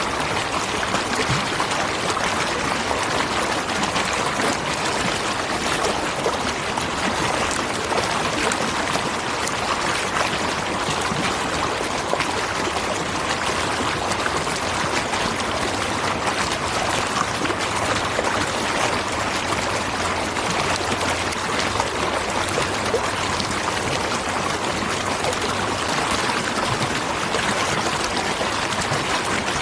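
Waterfall: water falling and rushing in a steady, even splashing that does not change.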